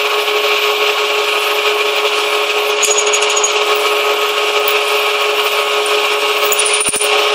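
Manual metal lathe running steadily: a constant machine hum with a hiss above it, and a short knock near the end.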